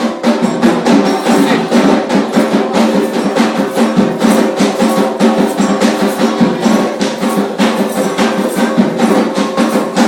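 Afro-Brazilian ceremonial percussion: drums and a sharp, wood-block-like struck percussion playing a fast, steady rhythm.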